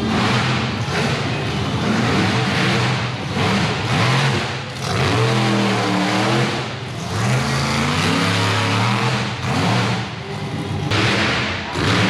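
Monster truck engine revving hard, its pitch and loudness surging and dropping several times.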